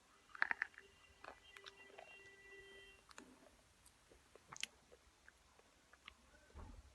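Person biting into and chewing white slate chips: a few sharp crunches about half a second in, then faint, scattered chewing clicks.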